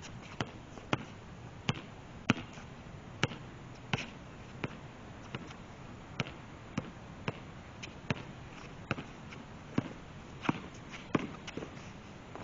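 A basketball being dribbled on a hard court: a run of sharp bounces, about two a second, in an uneven rhythm.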